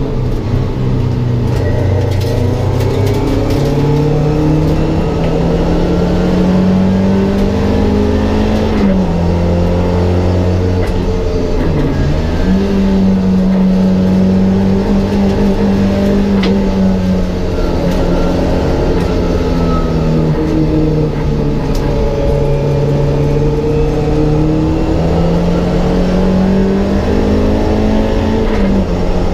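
Mk1 Ford Escort race car's engine, heard from inside the cockpit, pulling hard with its pitch climbing, then dropping sharply about nine seconds in and again near the end, as at gear changes. Through the middle stretch the note sags and then climbs back up.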